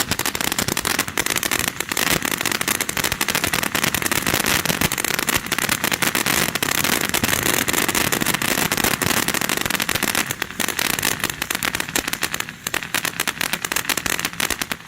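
Ground firework fountain burning: a steady hissing spray with dense, rapid crackling, dipping briefly a couple of times near the end.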